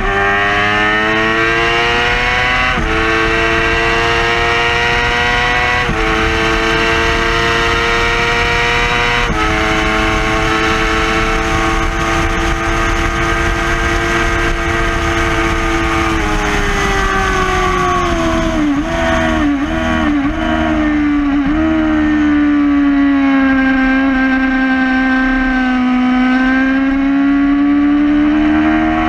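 2011 Yamaha R6's inline-four sportbike engine at high revs on track. It pulls hard through a run of upshifts, holds at speed, then drops revs through a string of quick downshifts with throttle blips about two-thirds of the way in, and climbs again near the end as it accelerates out of the corner.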